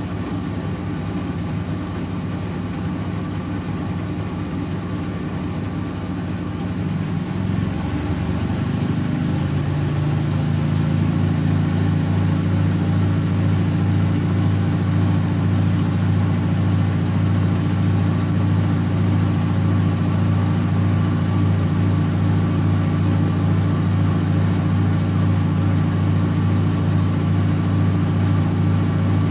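Servis Automatic M3008B washing machine in its 800 rpm final spin: the motor and drum hum steadily, picking up speed and growing louder about a quarter of the way in, then holding a steady higher spin.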